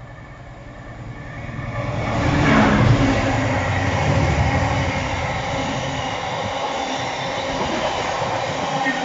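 A diesel train comes up and runs past close by. It grows louder over the first two to three seconds, then holds a steady loud rumble and rail noise.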